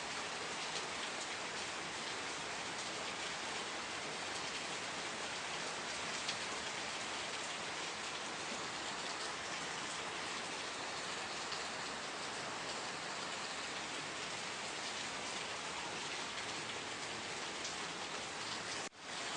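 Steady rain falling, an even hiss with scattered individual drop taps. It cuts out for a split second near the end, then resumes.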